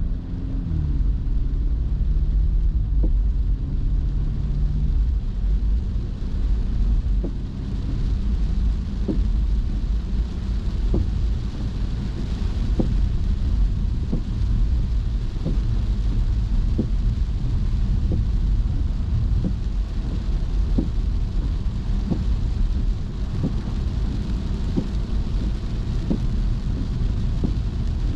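Car driving in rain, heard from inside the cabin: a steady low rumble of engine and road noise with rain hiss. From about a quarter of the way in there is a soft, regular knock about once a second.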